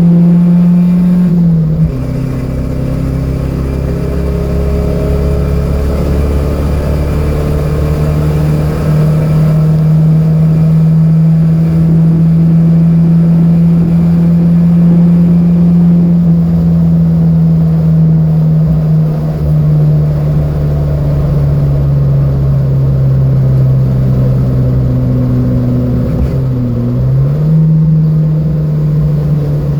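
Datsun B210's four-cylinder engine running hard at high revs. The note drops sharply about two seconds in, climbs back, then sags slowly. Near the end it dips briefly and recovers, like a gear change.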